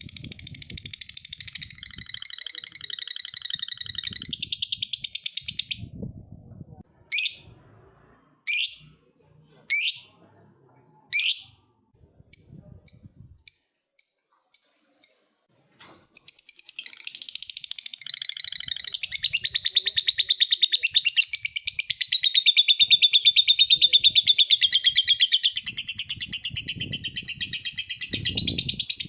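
Lovebird chattering in its long, rapid, high-pitched 'ngekek' trill. A stretch of chatter breaks off into four single sharp calls and a quick run of short chirps, then an unbroken chatter resumes about halfway through and runs on.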